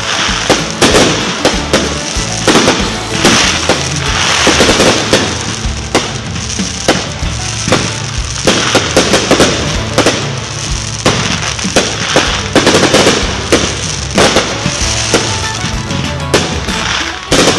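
Aerial fireworks bursting overhead: a continuous run of sharp bangs and crackling sparks, several a second.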